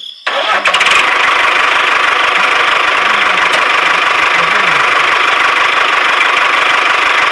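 Small electric motor of a DIY model tractor starting abruptly and running steadily with a loud, even whir.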